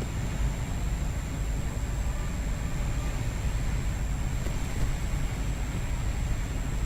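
Steady low rumble of a car driving along a highway, road and engine noise heard from inside the cabin, with a faint steady high-pitched whine over it.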